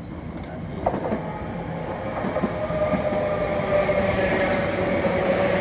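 Passenger train drawing into the station platform, growing steadily louder, with a steady whine from its running gear and a sharp click about a second in.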